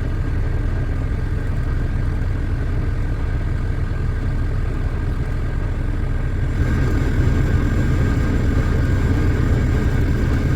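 Semi truck's engine and road noise heard from inside the cab while driving: a steady low rumble that grows a little louder about six and a half seconds in.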